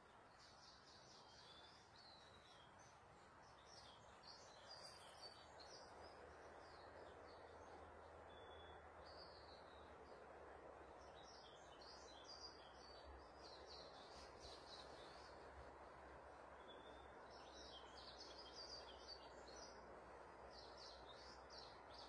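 Faint birds chirping over a steady background hiss, with many short, high calls recurring throughout.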